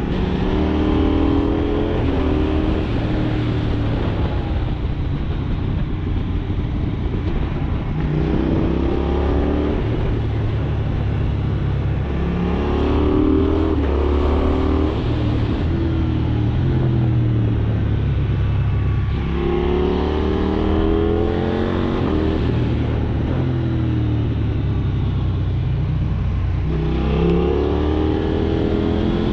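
KTM 790 Duke's parallel-twin engine heard from the rider's seat, accelerating through the gears in repeated rising sweeps of pitch, over a steady rush of wind.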